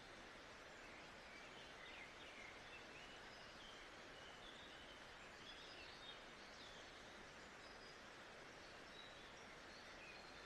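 Faint nature ambience: a steady soft hiss with small birds chirping and calling now and then.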